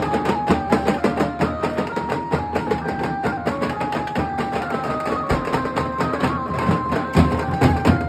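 Nasik dhol drumming in a fast, steady beat, with a melody instrument playing a stepping tune over the drums.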